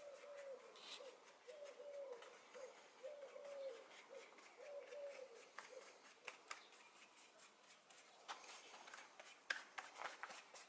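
A dove cooing faintly, a repeated low phrase of a few notes about every second and a half, which stops about five seconds in. Then a few light clicks and taps.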